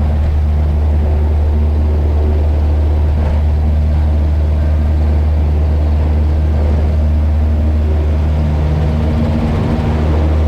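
Cessna 172's piston engine and propeller running steadily at high power during a short-field takeoff, heard from inside the cabin, with a slight change in tone near the end.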